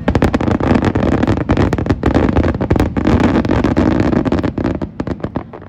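A dense fireworks barrage: rapid, overlapping bangs and crackling that thin out and grow quieter in the last second.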